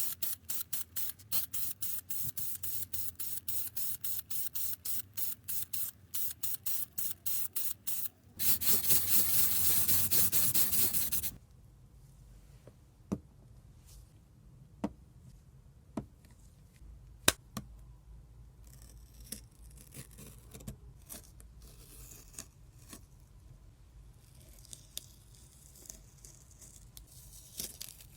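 Spray nozzle hissing in short rapid bursts, about four a second, for about eight seconds, then one continuous spray of about three seconds that cuts off suddenly. After that only scattered light clicks and taps.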